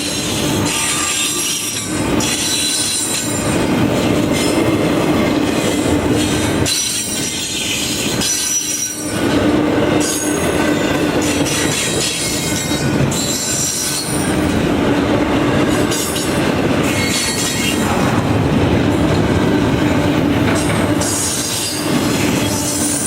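A train rolling past close by: a steady rumble of wheels on rail, with short high-pitched wheel squeals coming and going throughout.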